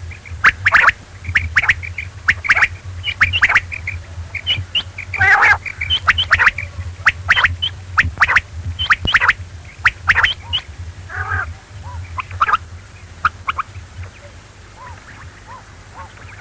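Quail calling: a rapid, irregular series of short, sharp calls that thin out near the end, over a steady low hum.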